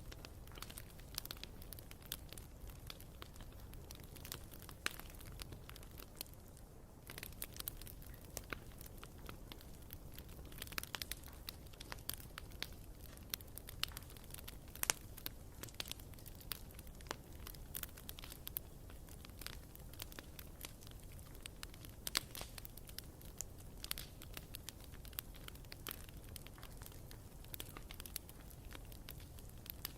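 Bonfire burning: irregular crackles and sharp pops of burning wood over a steady low rumble of the flames.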